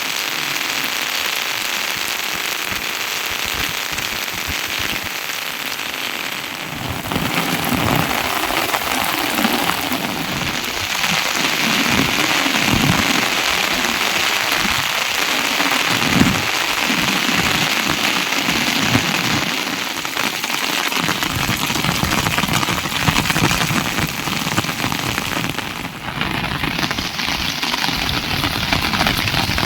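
Steady rain falling. Its sound changes abruptly twice, about seven seconds in and again near the end.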